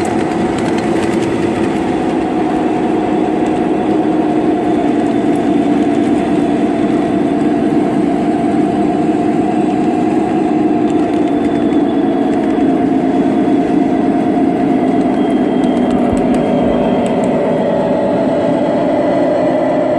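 QR 2100-class diesel locomotive's engine running steadily, its pitch drifting slightly up and down.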